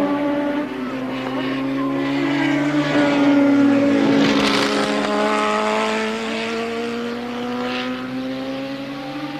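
Several 1983 Formula One cars' engines running at once, their pitches slowly falling and rising as they come and go; the loudest moment comes about halfway through as one passes close.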